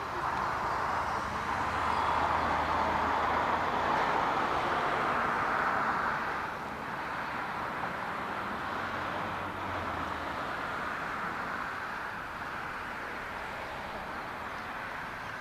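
Jet engine noise from a Boeing 787-9 Dreamliner passing by on the runway or in the air: a steady rush that is loudest a couple of seconds in and eases off after about six seconds.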